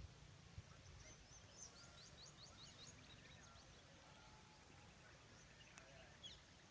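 Faint high-pitched bird chirps: scattered short rising notes, with a quick run of them about two seconds in and a few more near the end, over a low background rumble.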